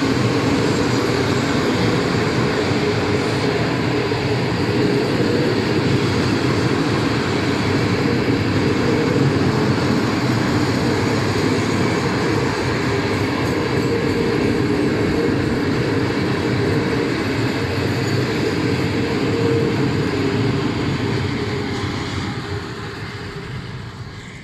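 Loaded freight wagons rolling past on the track, giving a steady, loud rumble of wheels on rails. It fades over the last few seconds as the end of the train goes by.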